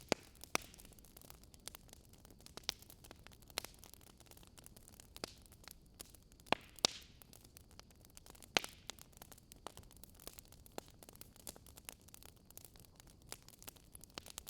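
Wood fire crackling, quiet: irregular sharp pops and snaps over a soft steady hiss, with a few louder snaps in the middle.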